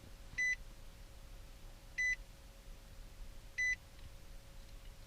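Nissan Titan XD's dashboard chime beeping three times, evenly about a second and a half apart, with the ignition switched on and the Cummins 5.0 diesel not yet running, while the glow plugs are being cycled.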